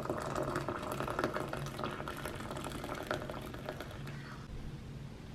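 Food cooking on the stove: a dense crackle of small pops that thins out about four seconds in.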